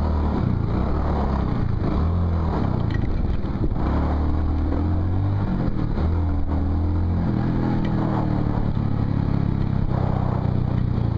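Motorcycle engine running while riding, its note shifting up and down several times with throttle and gears, over a steady rush of wind noise.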